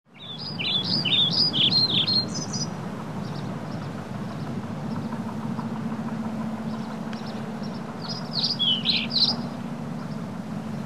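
Birds chirping: two runs of quick, sweeping notes, one near the start and one near the end, over a steady low rumble.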